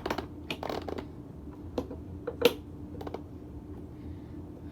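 About six sharp clicks and knocks of hard parts being handled on a Hoover Convertible upright vacuum, the loudest about two and a half seconds in; the vacuum's motor is off.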